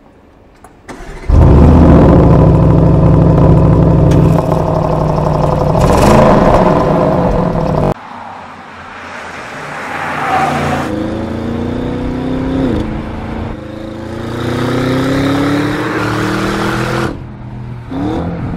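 Audi RS7's twin-turbo 4.0-litre V8 starting with a sudden loud flare about a second in, then running and revving hard. After an abrupt cut, the car drives by under acceleration, the engine's pitch climbing, dropping back at a gear change, and climbing again before it stops.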